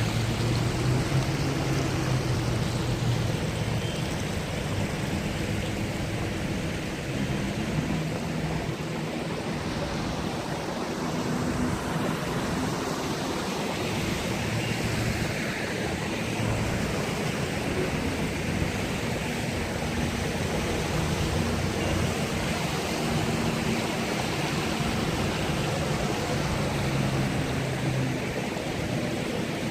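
Steady rush of heavy rain and wind, with a low hum underneath.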